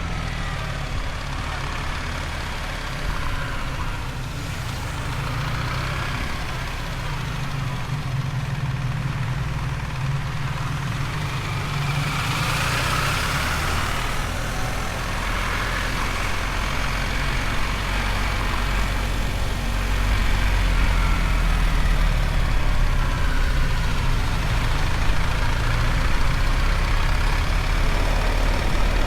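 BMW R1300 GS motorcycle's boxer-twin engine running steadily, growing louder about twenty seconds in.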